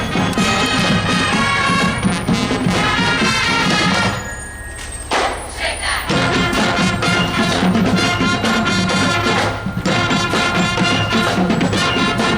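A school marching show band playing, its tune carried over a steady drum beat. About four seconds in, the music thins out and drops in level, losing its low end, then comes back in full about two seconds later.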